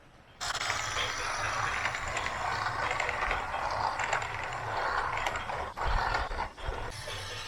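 Small electric motors and gearing of a radio-controlled backhoe loader running: a busy mechanical whirring and rattling after a brief silent gap at the very start.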